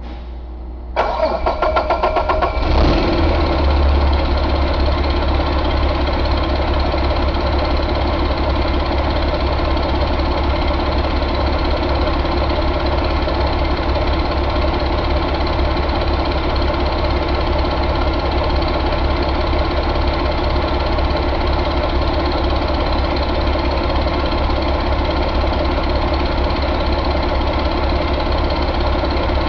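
2020 Paccar MX13 inline-six diesel engine turning over on its starter for about two seconds, catching about three seconds in and settling into a steady idle.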